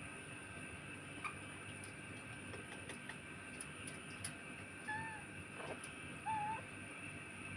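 A young monkey giving two short squeaky calls about a second and a half apart, the second sliding up at the end, over scattered small clicks and a steady high background hum.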